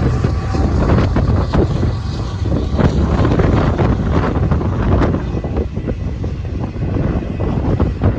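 Strong gusty wind buffeting the microphone: a heavy, uneven low rumble with irregular gusts. A faint steady tone fades out under a second in.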